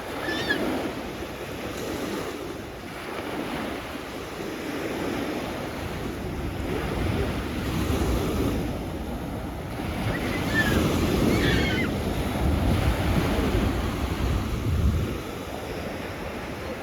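Sea waves washing onto the shore, swelling louder in surges through the middle and later part.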